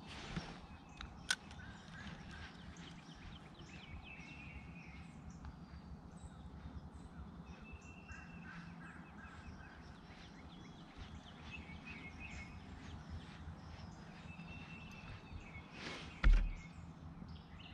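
Birds calling along the creek: short pitched calls repeated every few seconds over a faint steady outdoor background. A single loud low thump comes near the end.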